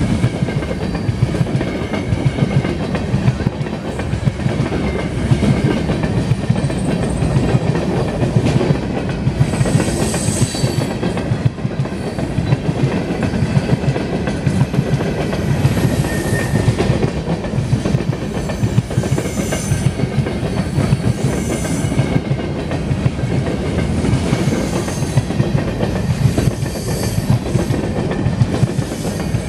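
Empty covered hopper cars of a freight train rolling past close by: a steady rumble with the continuous clickety-clack of steel wheels over rail joints, and now and then a brief high squeal.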